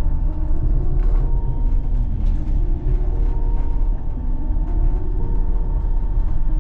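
Low, steady rumble of the Kanazawa Seaside Line's rubber-tyred automated train running along its elevated guideway, heard from inside the front of the car, with faint clicks and rattles now and then. Held tones that change pitch every second or so sound over it.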